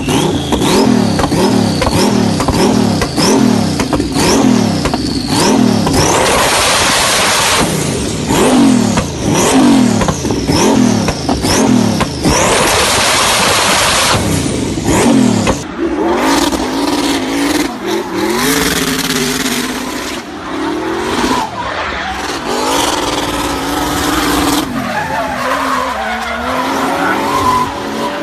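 A turbocharged engine is free-revved over and over, about one rev a second, each rising and then dropping back. About halfway through it gives way to a car drifting on a track, its engine running under load with tyres squealing.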